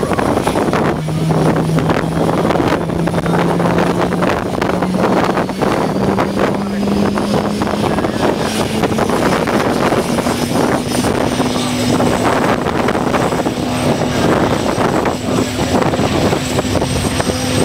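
Aircraft engine running with a steady hum over a noisy rush, its pitch climbing slowly and evenly for about fifteen seconds.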